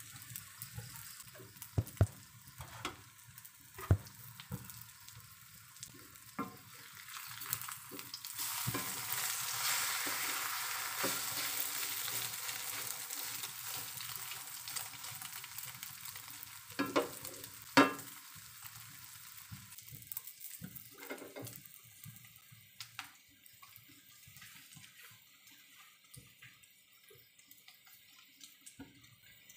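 Egg omelette frying in oil in a steel wok, sizzling, while a wooden spatula scrapes and turns it. The sizzle swells loudest about a third of the way in and then dies down. There are a few sharp knocks of the spatula on the wok, the loudest a little past halfway.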